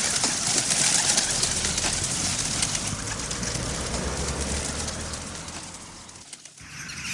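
Bird calls over a steady hiss, fading away about six seconds in before an abrupt cut.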